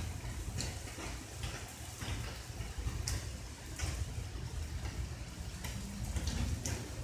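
Rain falling, with irregular drips tapping sharply every second or so over a steady low rumble.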